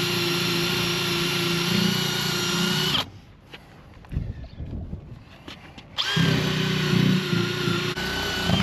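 Drill spinning a rubber sticker eraser wheel against a truck's paint to strip decal residue, a steady whine. It stops abruptly about three seconds in, and after a pause of about three seconds starts again and runs briefly before cutting off.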